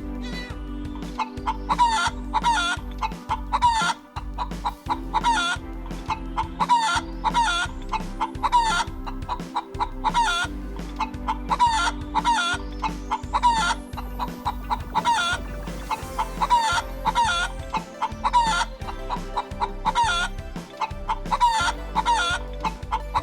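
Chickens clucking, a rapid run of short calls repeating several times a second, over background music with steady low notes.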